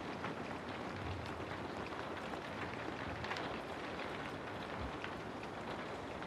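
Steady rain falling, a continuous hiss with scattered individual drops tapping through it.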